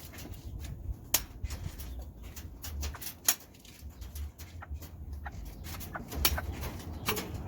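Serama bantam chickens: scattered sharp taps and clicks over a low steady rumble.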